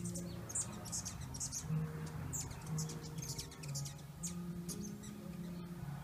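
Small birds chirping: many short, high chirps, several a second, over low held tones that change pitch every second or so.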